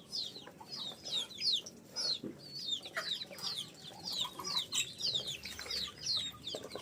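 A group of ducklings peeping continuously: many short, high, downward-sliding peeps, several a second, overlapping one another.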